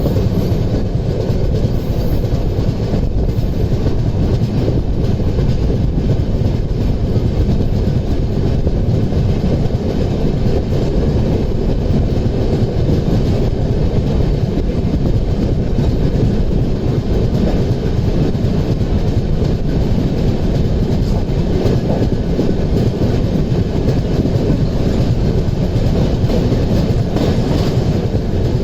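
Passenger train running at speed: a steady, loud rumble and rattle of wheels on the rails.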